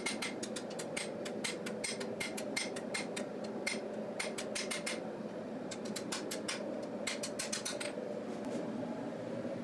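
Forging hammer striking hot knife steel on an anvil in quick runs of about four or five blows a second, over a steady hum; the blows thin out about halfway through and stop near the end. The hammering straightens the blade's spine, which arched while the bevels were forged.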